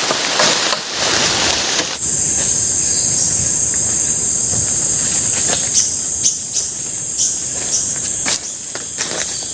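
Steady high-pitched drone of forest insects, starting abruptly about two seconds in after a short stretch of broad hissing noise, with scattered sharp clicks and taps over it.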